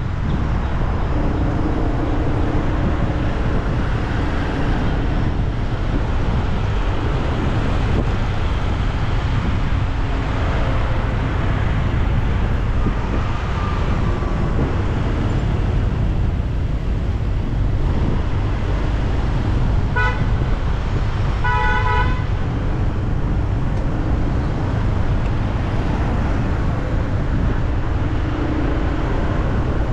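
Road traffic running steadily, with a vehicle horn tooting twice about two-thirds of the way through: a short toot, then a slightly longer one.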